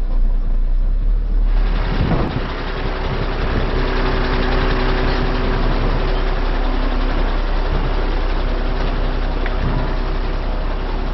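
Truck engine running at idle, a steady low rumble with a faint even hum; the sound turns fuller and brighter about one and a half seconds in.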